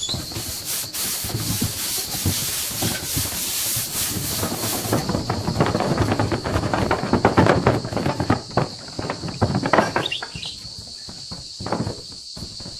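Abrasive rubbing on wood, like sanding, with rough, fast, irregular strokes that grow heavier in the middle and ease off near the end. A steady high-pitched tone runs behind it.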